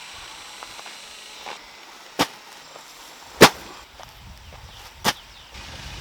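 Three sharp knocks or strikes, a second or more apart, the middle one the loudest.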